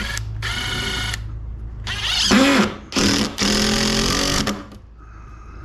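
Power drill driving screws into the bench frame in four bursts, the motor winding up in pitch as each screw goes in, over a steady low hum.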